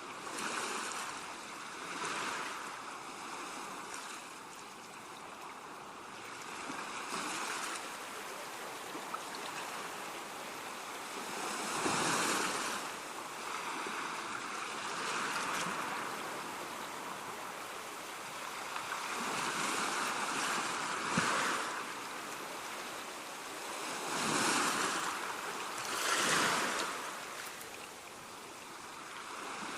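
Ocean waves breaking and washing up on a beach, in swells every few seconds, with the loudest breakers about twelve seconds in and twice near the end.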